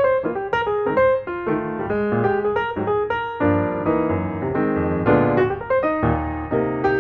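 Piano music, a quick run of notes and chords.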